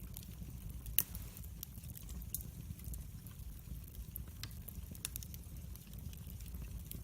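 Wood fire in a fireplace crackling: scattered sharp snaps and pops over a low steady rumble, with one louder pop about a second in.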